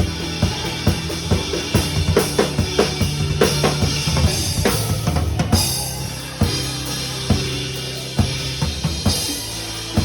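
Drum kit played along with a gospel song, bass drum and snare strokes over sustained bass and keyboard accompaniment. The strokes come thick and fast in the first half, like a fill, then thin out to single hits about a second apart.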